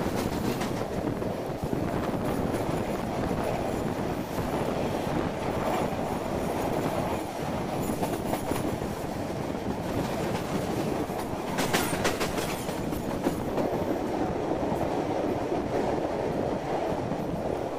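Diesel-hauled passenger train of the Vitória a Minas Railway running along the track, heard from an open coach window: a steady rumble of wheels on the rails, with a few brief sharper clatters, the loudest about twelve seconds in.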